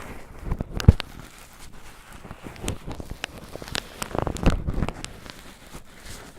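Cotton swabs crinkled and rubbed against a microphone, making an irregular rough crackling and scratching, with a sharp knock about a second in.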